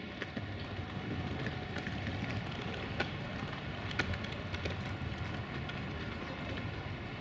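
Low steady rumble of a train rolling on the track, with a few sharp metallic clicks, the strongest about three and four seconds in.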